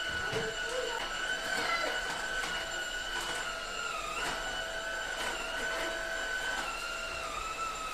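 A steady, high motor whine that wavers slightly in pitch, with scattered light clicks and knocks.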